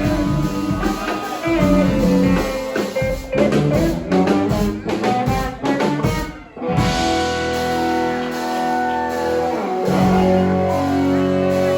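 A live band playing blues-rock, with guitar and drums. The playing is busy with stops and hits, breaks off for a moment about six and a half seconds in, then goes on with long held notes.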